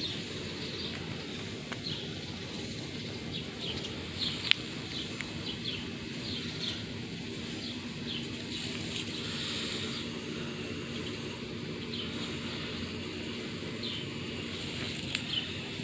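Small birds chirping now and then over a steady low hum, with one sharp click about four and a half seconds in.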